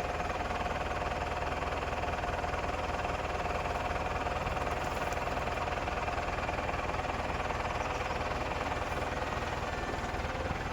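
An engine idling steadily, with a fast, even low pulse underneath.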